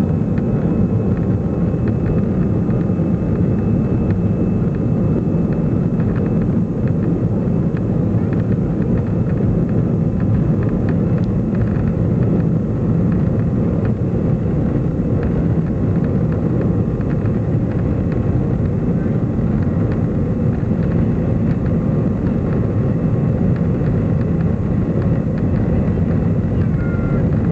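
Steady, loud cabin noise inside an Airbus A320 under power: a deep, even roar of the jet engines and airflow, with a few faint steady whines above it.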